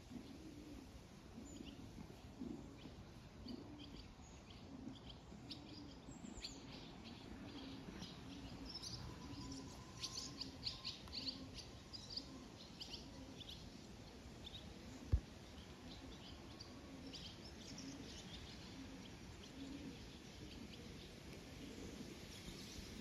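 Small garden birds chirping and twittering faintly, a quick run of calls most dense about halfway through. Underneath is a soft low pulsing about every three-quarters of a second. A single sharp tap comes about two-thirds of the way in.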